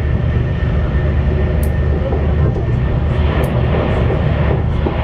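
Steady running noise inside a CRH1A high-speed electric multiple unit travelling at speed: a low rumble of wheels on rail under an even rushing hiss. There are a couple of faint, short high clicks.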